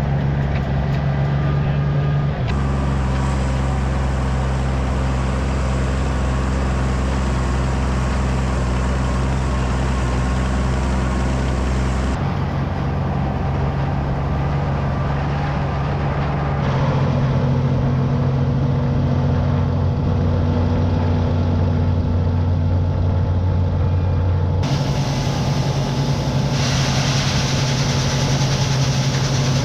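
Engines of large farm harvest machinery running steadily. Their pitch and tone change abruptly several times, about 2, 12, 17 and 25 seconds in.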